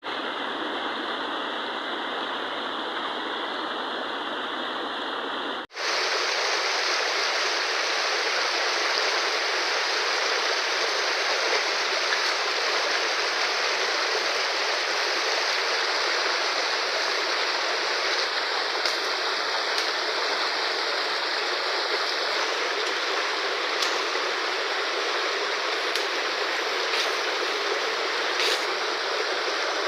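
Fast-flowing river water rushing, a steady even sound; about six seconds in it cuts to a louder, brighter stretch of the same rushing water.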